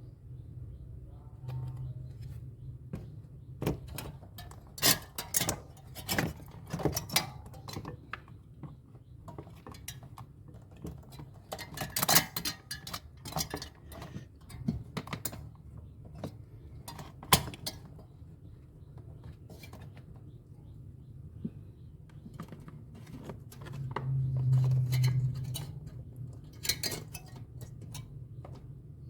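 Irregular clicks, taps and light metallic clatter of hands and tools working on refrigerator parts, over a low steady hum that swells briefly near the end.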